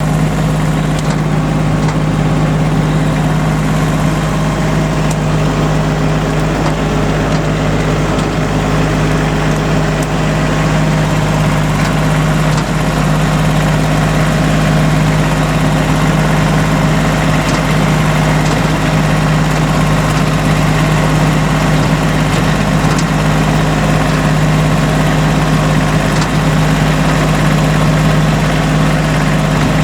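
Tractor engine running steadily at a constant speed, an even hum that holds the same pitch throughout.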